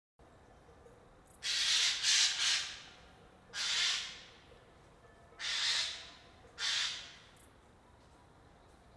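Eurasian jay giving a series of about six harsh, rasping screeches, the first three in quick succession, then three more spaced about a second apart.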